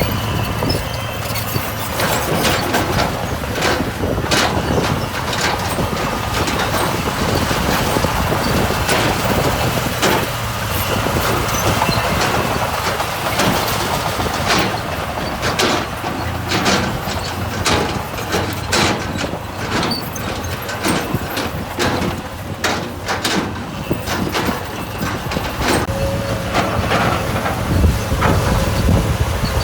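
Heavy earthmoving machine's engine running steadily, with frequent sharp clanks and knocks throughout.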